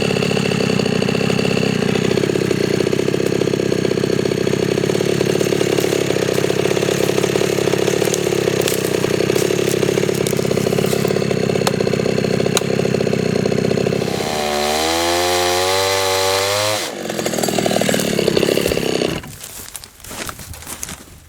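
Two-stroke chainsaw cutting steadily under load. About fourteen seconds in it comes out of the cut and its engine speed swings up and down for a few seconds, then it stops at about nineteen seconds. Sharp crackling and snapping follow.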